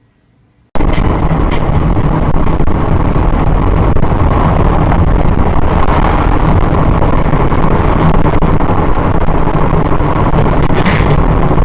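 Loud, steady rumbling road and engine noise of a moving car, cutting in abruptly just under a second in.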